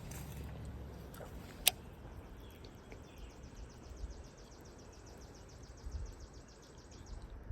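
Outdoor ambience with a low wind-like rumble, a rapid, evenly spaced high ticking for about five seconds, and one sharp click about a second and a half in.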